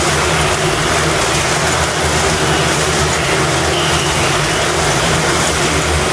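Several sport motorcycle engines running together at speed inside a steel globe of death: a loud, steady, unbroken drone.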